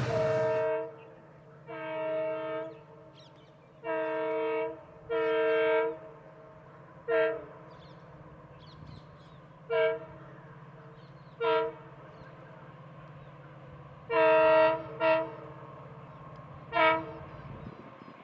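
An Indian Railways locomotive horn sounds a series of blasts: several long ones of about a second each, then shorter toots a couple of seconds apart. A low steady train rumble runs underneath and stops near the end.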